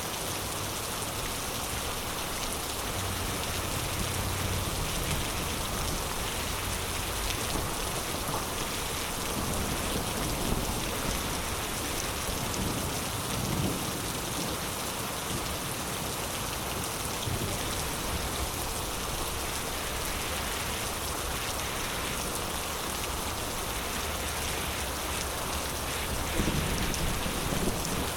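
Heavy rain falling steadily as a dense, even hiss, with low rumbles a few seconds in and again near the end.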